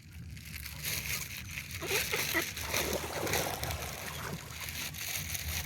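Water splashing and sloshing, growing louder for a few seconds and then easing, over a low steady rumble.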